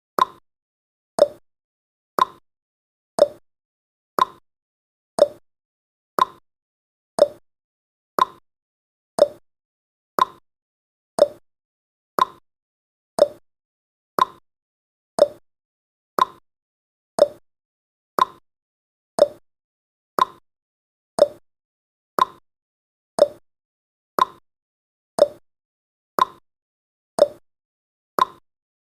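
Countdown timer tick sound effect: a short, sharp click or pop once every second, evenly spaced and each fading quickly.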